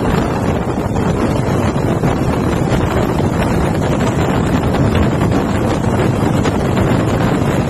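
Steady wind noise buffeting the microphone over a low rumble, as heard riding in a moving MSRTC bus.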